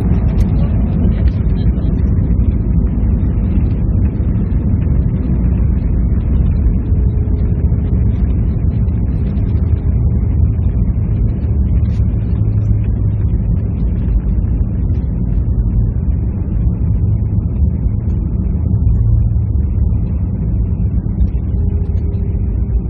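Steady low rumble of engine and air noise heard inside the cabin of an Airbus A320-214 airliner, with a faint hum that slowly falls in pitch during the first few seconds.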